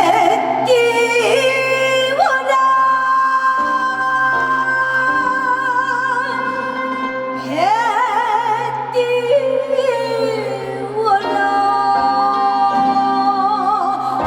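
A woman singing a Korean folk-style song in a traditional gugak manner, sliding up into long held notes with a wide, slow vibrato, over steady instrumental accompaniment.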